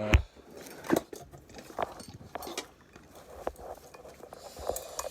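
Things being moved around and set down on a work surface: irregular knocks, clicks and clatter, with a sharp knock right at the start and another about a second in.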